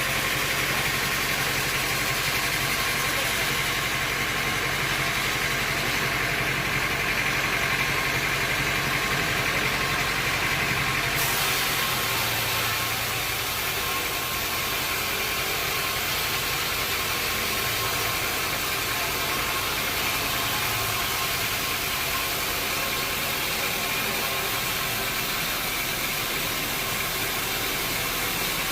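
Sawmill machinery running steadily with an engine-like drone, its tone shifting slightly about eleven seconds in.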